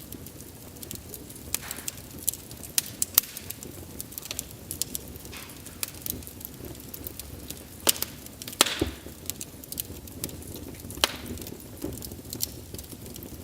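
Wood fire crackling, with sharp irregular pops over a steady low burning hiss and a few brief hisses; the loudest pops come about three seconds in and near nine seconds.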